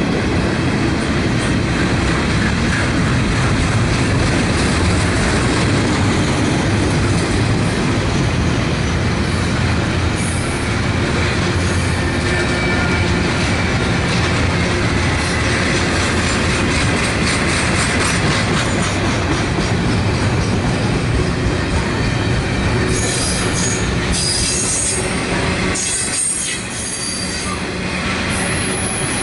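Double-stack intermodal well cars of a freight train rolling past: a steady rumble of steel wheels on rail with repeated clicking over the rail joints. High-pitched wheel squeal comes and goes, strongest in the last few seconds.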